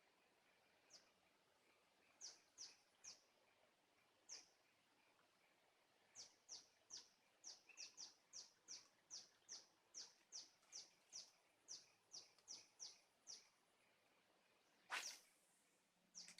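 Faint bird calls: short, high falling chirps, a few scattered at first, then a steady run of about three a second for several seconds. A brief sharp noise near the end.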